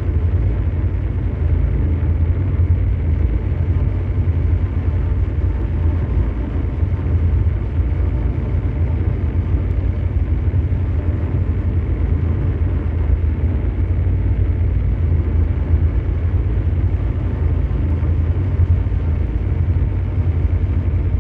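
Ambient mechanical drone noise: a steady, deep, brown-noise-like rumble, heaviest in the bass, with faint steady hum tones and no change.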